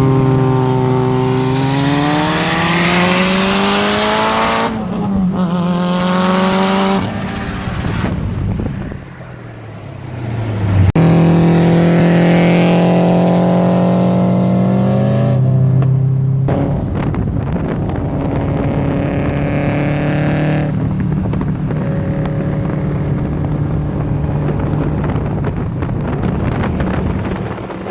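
Car engine accelerating hard, its pitch climbing and dropping back twice at gear shifts before winding down. After a cut it holds a steady high pitch for a few seconds, then settles into a lower, steadier running sound.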